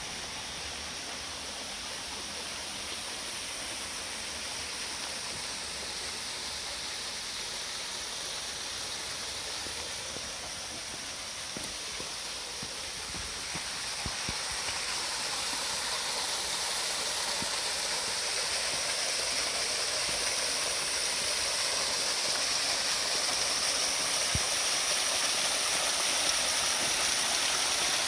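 Waterfall splashing steadily, growing louder about halfway through.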